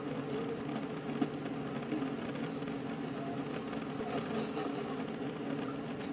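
Steady rumble of a train in motion, played back from a travel video.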